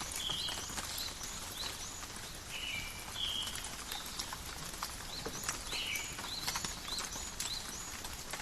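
Calm rain with scattered drops tapping sharply, and birds giving short, repeated chirps over it.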